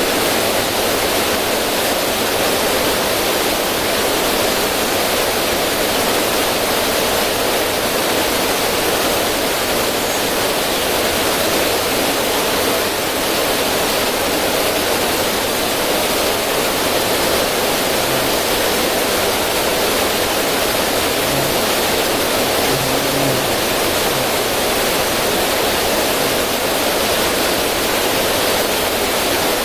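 River water rushing and splashing over rocks in a small cascade: a steady, even rush with no letup.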